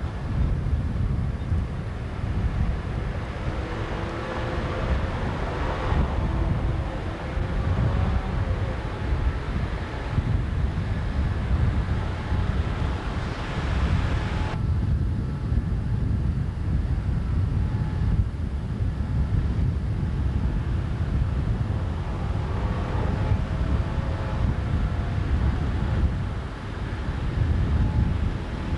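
A boat engine running steadily under a heavy low rumble of wind buffeting the microphone on open water. About halfway through, the hiss on top drops away abruptly.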